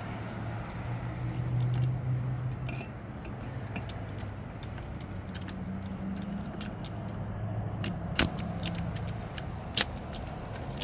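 Small metal starter-motor parts clicking and clinking as they are handled and fitted during reassembly, with two sharper clicks near the end, over a steady low hum.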